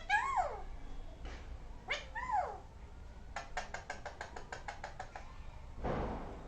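Pet parrot making two short calls that rise and fall in pitch, about two seconds apart. These are followed by a quick run of about a dozen clicks and a short hiss near the end.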